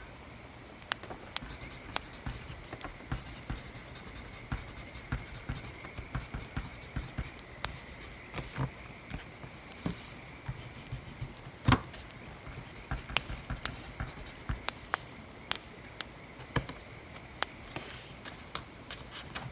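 Crackling wood fire: irregular sharp pops and snaps from burning wood, with one louder pop about twelve seconds in.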